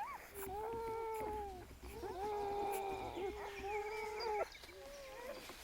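Newborn wolf pups whining: two long, steady cries in a row, then a fainter, shorter one near the end.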